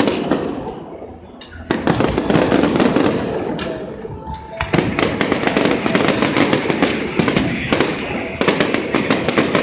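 Fireworks barrage: many shells bursting in rapid succession, with dense crackling and popping. There is a brief lull about a second in, then it picks up again.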